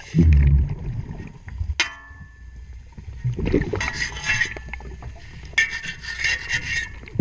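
Underwater sound of a diver cleaning a boat propeller: scuba regulator breaths hissing, bubbles rumbling at the start and end, and scraping, with one sharp metallic knock about two seconds in.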